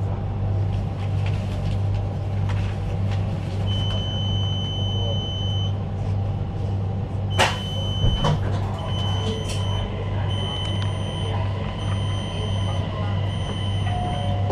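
Cabin noise inside a CRH1A high-speed train carriage: a steady low hum and rumble, with a thin high whine coming in about four seconds in. Two sharp knocks come just past the middle.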